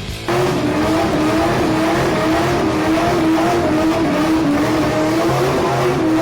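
Ford 302 small-block V8 in a 1959 F100 pickup, held at high, steady revs in a burnout, with a slightly wavering engine note. It cuts in suddenly just after the start.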